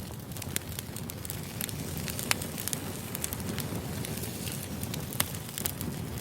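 Wood fire burning: a steady low rumble of flames with constant crackling and sharp pops from the burning logs, the loudest pops about two seconds in and about five seconds in.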